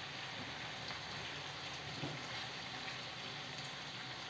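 Kheksa (spiny gourd) pieces frying uncovered in oil in a kadai over a high gas flame: a faint, steady sizzle.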